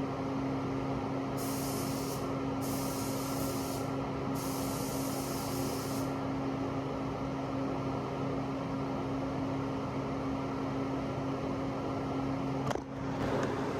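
A steady machine hum, with three short bursts of high hissing spray in the first six seconds, then a brief break near the end.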